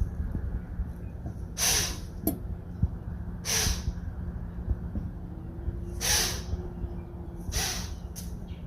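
White-tailed doe blowing: four sharp, breathy snorts about two seconds apart, the deer's alarm call at a perceived danger.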